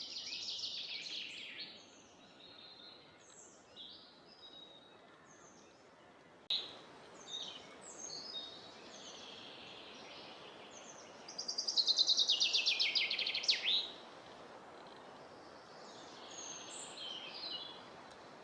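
Songbirds singing in a spring chorus, among them a common chaffinch giving its rapid, descending song that ends in a flourish, heard twice, the louder one about two thirds of the way through. A faint steady hiss lies underneath.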